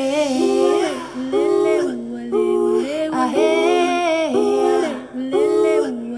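Music with a woman's voice singing short melodic phrases, one after another about once a second, with few or no clear words.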